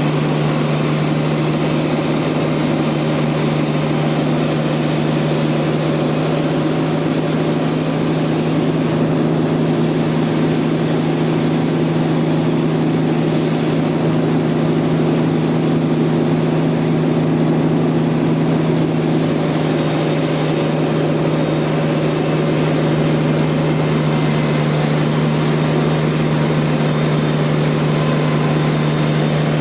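Sawmill machinery running with a steady low hum. A brighter, higher hiss joins in over the middle and stops suddenly about two-thirds of the way through.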